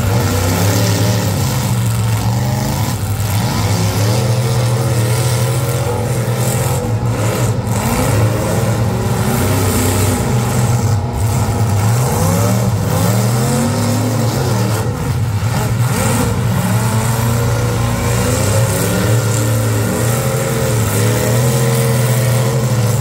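Several full-size demolition derby cars' engines running and revving at once, their pitches rising and falling repeatedly over a steady low drone.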